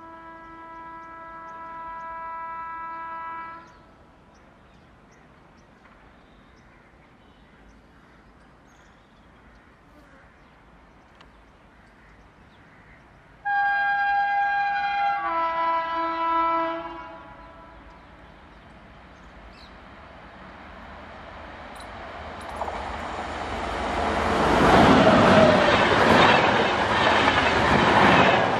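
An Indian Railways electric locomotive's horn sounds a steady multi-tone blast, then after a pause a second, louder blast that changes pitch partway through. The train then draws near and runs past at speed with LHB coaches, a rising rumble and clickety-clack of wheels on rail that is loudest near the end.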